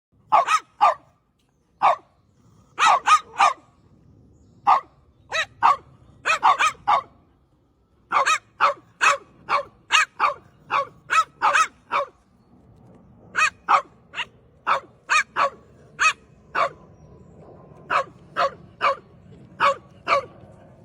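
French bulldog barking over and over: dozens of short barks, some single and some in quick runs of two to four, with a pause of about a second midway.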